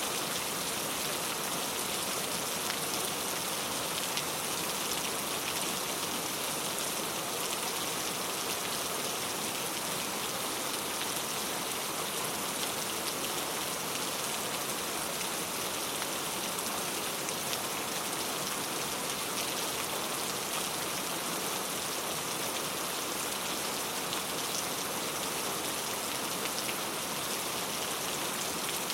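Steady rain falling: an even, unbroken hiss of many small drops.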